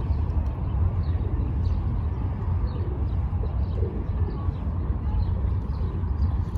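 Faint, scattered high bird chirps over a loud, steady low outdoor rumble.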